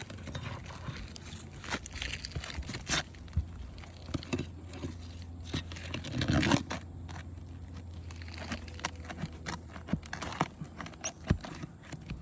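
Asphalt shingles being worked loose to pull roofing nails: crinkling and scraping with scattered sharp taps, and a louder rough scrape about six seconds in.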